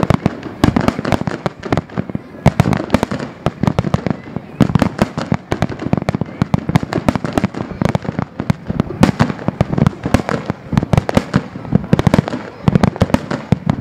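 Aerial fireworks shells bursting in a rapid, unbroken barrage: many sharp bangs and crackles every second, one after another.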